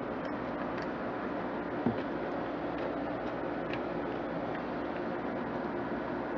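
A few faint, scattered clicks over a steady background hiss, the clearest about two seconds in, as small hardware is handled.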